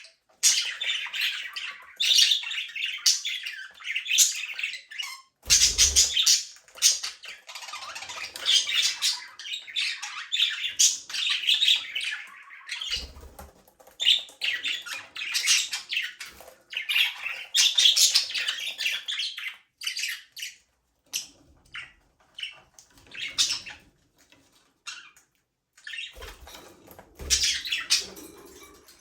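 A flock of budgerigars chattering, chirping and squawking in rapid bouts with short pauses between them. A few low thumps come in now and then.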